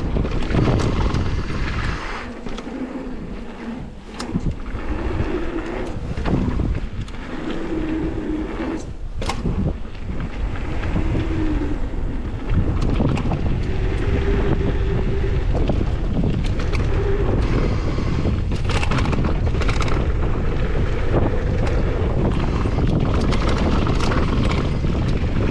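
Heavy wind buffeting the microphone: a deep, gusty rumble that turns steadier and louder about halfway through, with a few short low hums and scattered clicks and knocks.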